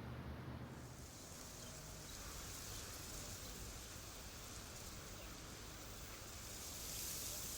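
Faint, steady outdoor ambience: an even hiss with no distinct events, swelling slightly near the end.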